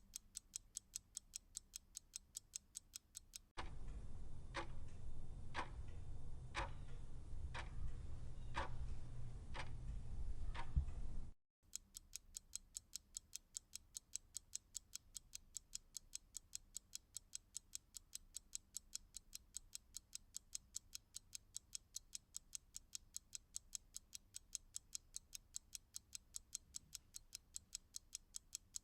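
Clock ticking: fast, even ticks, several a second. From about three and a half seconds in, a different clock takes over for about eight seconds, ticking about once a second over a low rumble, before the fast ticking cuts back in suddenly.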